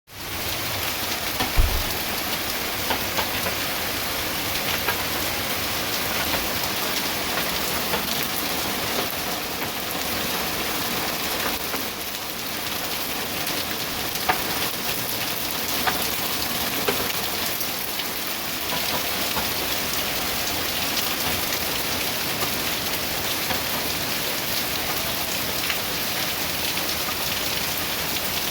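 Hailstorm: hail and rain falling steadily onto hard surfaces, with a sharp click from a single stone now and then. There is one dull thump about a second and a half in.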